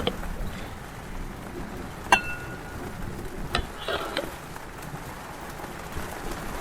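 Food sizzling in a pan as it is stirred, a steady hiss. A metal utensil strikes the pan about two seconds in and the pan rings briefly. A lighter click and a short scrape follow.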